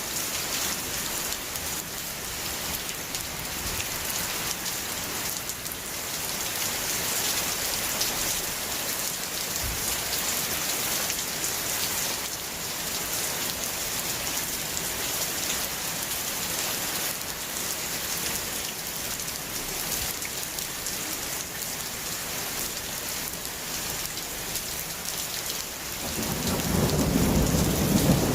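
Steady rain falling, a dense even hiss. Near the end a low rumble of thunder swells in and grows louder.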